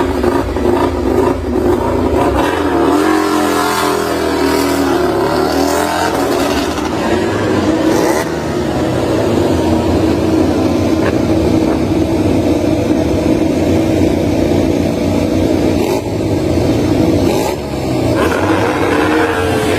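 MotoGP prototype racing motorcycle engines running and revving loudly, the pitch rising and falling over the first several seconds, then holding steadier.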